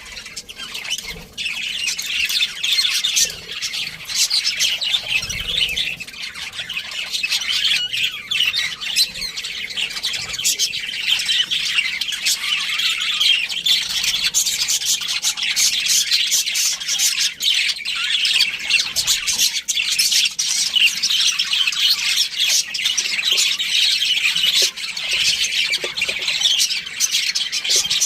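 A group of budgerigars chirping and chattering continuously, many birds calling over one another in a dense, high-pitched warble.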